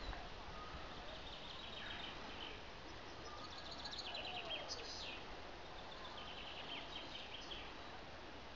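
Songbirds singing outdoors: several bursts of high, rapid trilling phrases over a faint, steady background noise.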